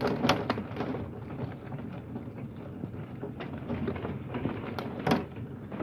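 Hail and heavy rain striking hard surfaces: an irregular patter of sharp ticks over a steady hiss of rain.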